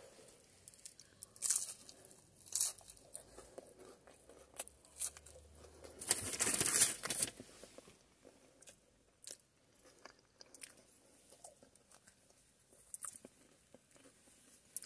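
Close-up eating sounds of someone biting into and chewing a battered potato scallop: crisp crunches of the batter and scattered small clicks, with a longer, louder crunching stretch about six seconds in.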